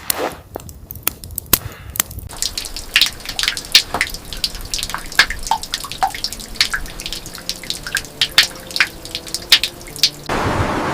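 Water dripping irregularly: many quick drips and taps, a few with a short ringing plink. Near the end a steady rushing noise takes over.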